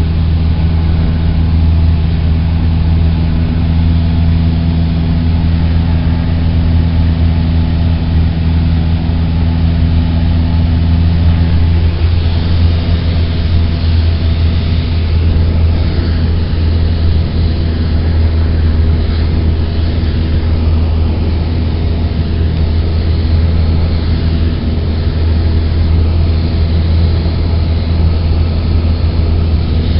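Cessna 172's four-cylinder Lycoming engine and propeller droning steadily, heard inside the cabin. About twelve seconds in, a couple of the steady engine tones fade and the sound turns a little rougher, as with a small change in power.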